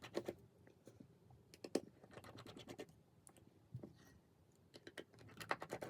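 Faint, scattered clicks and light scratching of small repair tools on a smartphone's internal parts and screws, with a quick run of clicks near the end.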